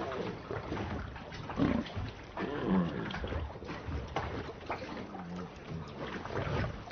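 Bengal tiger growling and snarling, with two louder growls about one and a half and three seconds in.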